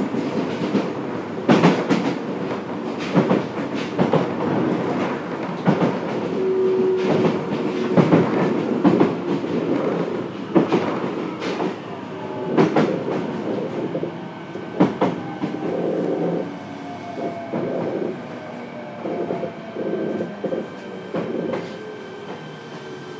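Onboard running sound of a Fukuoka City Subway 1000N series train: the wheels clack over rail joints at speed. From about halfway a whine from the traction motors falls steadily in pitch as the train slows, and the clatter thins out.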